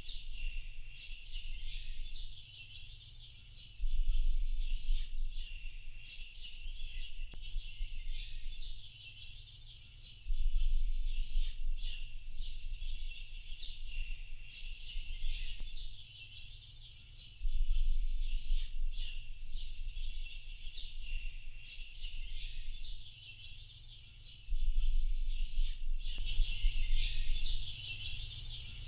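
Dense, continuous chorus of small birds chirping and twittering at a high pitch. Under it, a low rumble swells in suddenly about every six or seven seconds, four times, and is the loudest part each time.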